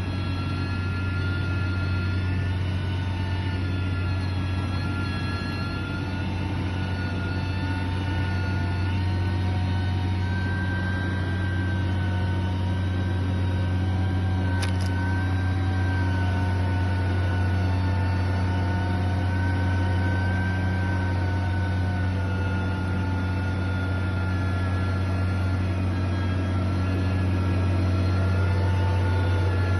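Heavy construction machine's engine running steadily, with a constant low hum and a faint whine over it, and a single brief click about halfway through.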